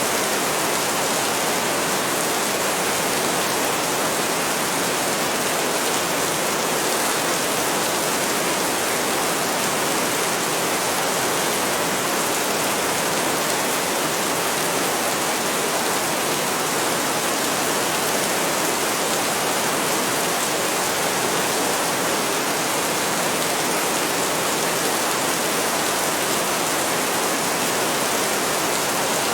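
Heavy rain falling steadily: an even, dense hiss with no breaks and no thunder.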